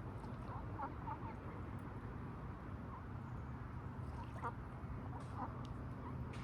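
Duck giving short clucking calls, a quick cluster about a second in and single calls scattered through the rest, over a steady low rumble.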